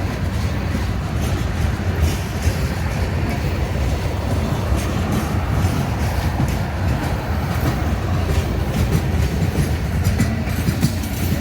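Union Pacific coal train's hopper cars rolling past in a steady, low rumble, with the wheels clicking and clattering along the rails.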